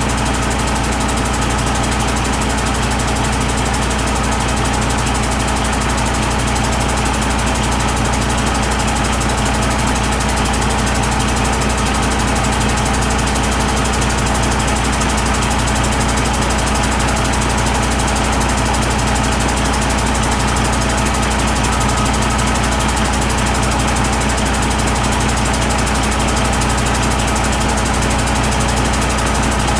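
Detroit Diesel Series 60 14.0 L inline-six diesel engine running steadily at a constant speed, with no revving.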